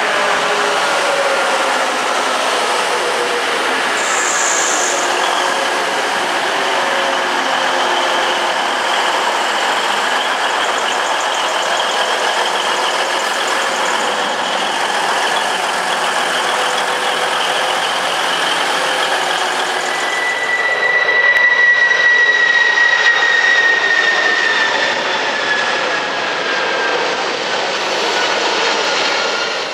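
TransPennine Express Class 185 diesel multiple unit passing close along the platform, a steady rumble of engine and wheels on rail. About two-thirds in, a jet aircraft overhead takes over with a louder, slowly falling whine.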